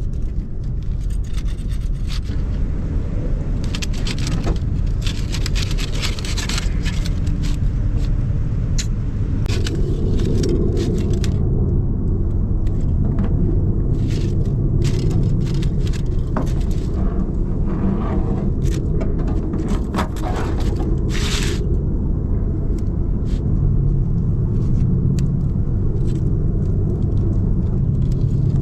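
A steady low rumble, with repeated short scrapes and clicks over it.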